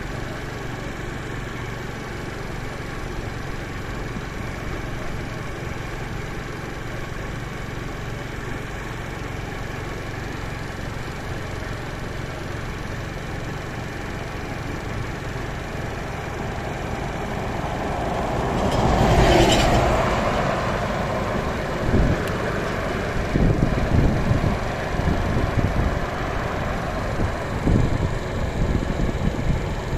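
Steady hum of a motor vehicle engine. About two-thirds of the way in, a vehicle sound swells up and fades away as if passing. It is followed by irregular low thumps and rumbles.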